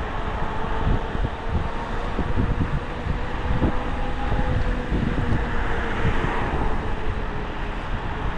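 Wind buffeting the microphone and road noise from a moving e-bike, a steady rushing rumble, with a faint steady whine running through it.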